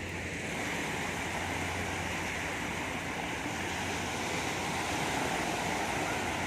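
Steady rushing noise of sea surf, with a low steady hum underneath; it grows slightly louder about half a second in.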